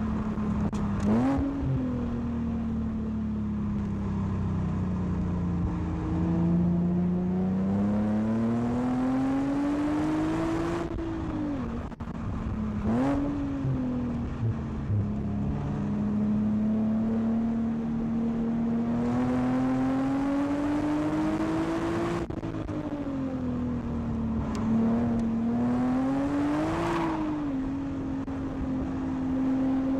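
Nissan 370Z's 3.7-litre VQ37 V6 engine under track driving, heard from inside the cabin. Its pitch climbs steadily as the car pulls, then falls back sharply, several times over, with road rumble underneath.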